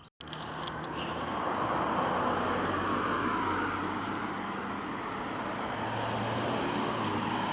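Road vehicle noise: a steady rush of tyre and engine sound with a low hum, starting abruptly after a cut.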